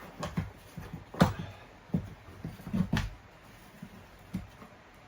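Irregular knocks and clicks of a steel foothold trap (Bridger No. 2, offset jaws) being handled and set by hand, the two loudest knocks about a second in and about three seconds in.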